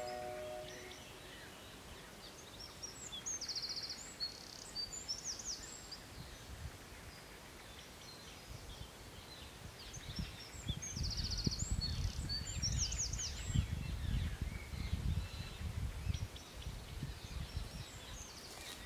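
Wild birds singing among trees: high, quick trills and chirps that come and go, over a low rumble that swells for several seconds in the middle.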